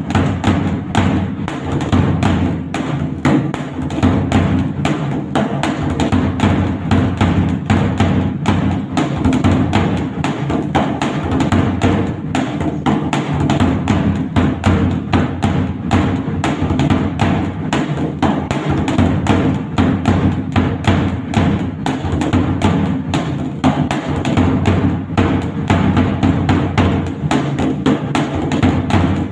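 Dhak, a large two-headed barrel drum, played with sticks in a fast, unbroken rhythm of dense strokes.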